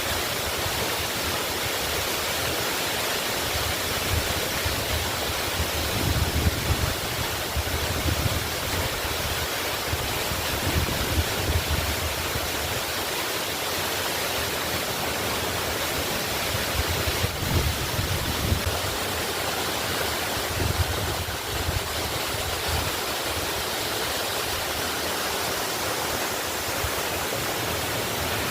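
Waterfall rushing steadily, with a low rumble that swells and eases every few seconds.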